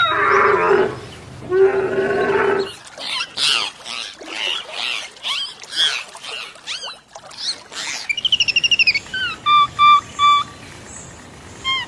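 A run of animal calls: two drawn-out, wavering calls in the first three seconds, then a flurry of short bird chirps, then short squawking notes repeated about three times a second.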